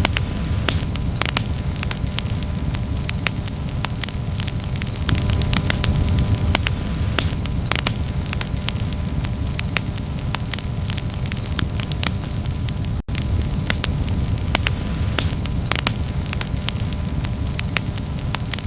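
Wood campfire burning, with dense irregular crackles and pops over a steady low rumble of flame. The sound drops out for a split second about two-thirds of the way through.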